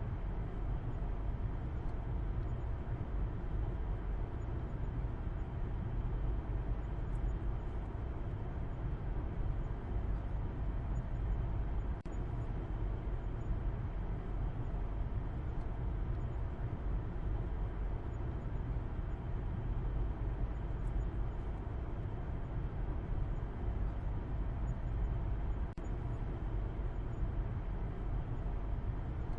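A car driving along: a steady low rumble of road and engine noise, even throughout, with two brief small dips about twelve seconds in and near the end.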